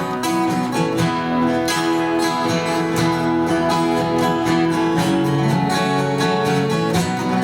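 Acoustic guitar strumming the instrumental introduction of a country-folk song, in a steady rhythm with no singing.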